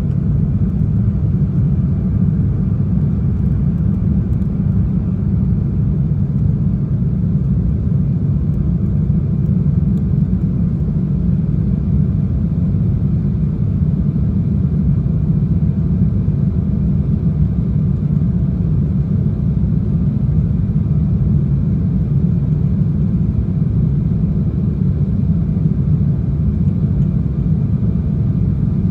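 Airliner cabin noise in flight: a steady low rumble of engines and airflow, with faint steady tones above it.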